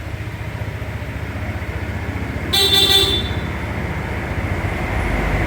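Honda ADV 160 scooter's single-cylinder engine idling steadily, with its horn sounded once in a short beep about two and a half seconds in.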